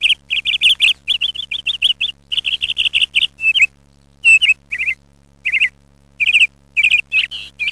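High-pitched chirping calls in quick rattling trains of several notes each, broken by short pauses and growing more spaced out toward the end.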